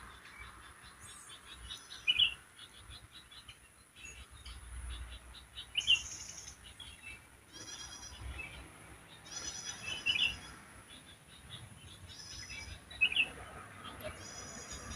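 Wild songbirds calling: a loud, sharp note repeats about every three to four seconds, with buzzy, rattling calls and softer chirps in between, over a steady high-pitched whine.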